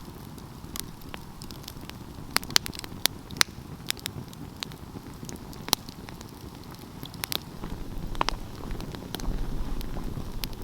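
Wood fire burning, crackling with scattered sharp pops, a few of them loud, over a steady hiss. A low rumble grows louder in the second half.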